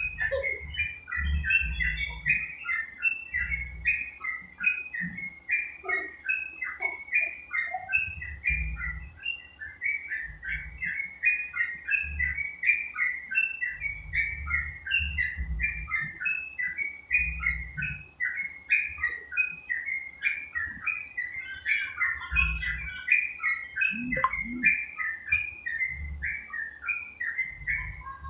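Yellow-vented bulbul (trucuk) singing a continuous stream of quick, bubbly chirping notes, several a second, with intermittent low rumbling underneath.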